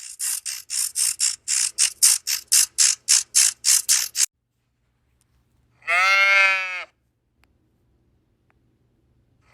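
Rapid rasping animal pulses, about four a second, stop after about four seconds. After a pause comes a single bleat about a second long.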